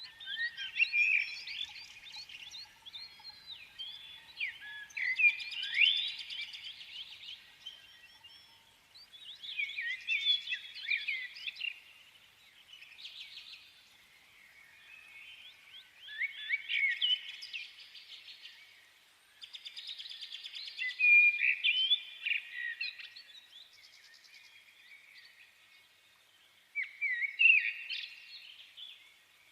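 Bird song: a songbird singing in bursts of quick chirps and trills, about every four to six seconds, with short quiet gaps between the phrases.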